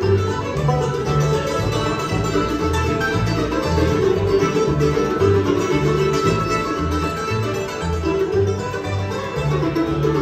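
Bluegrass band playing an instrumental passage: banjo and guitar picking, with mandolin, over a low bass line that steps between notes about twice a second.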